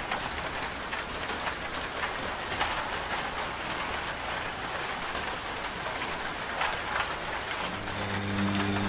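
Steady rain with many scattered drop ticks. The low hum of the washing machine's motor is absent at first and comes back about three-quarters of the way in.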